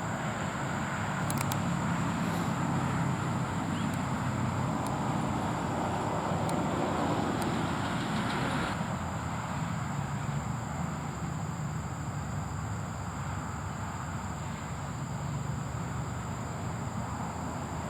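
Steady road traffic noise, an even wash of sound with a few faint clicks in the first half.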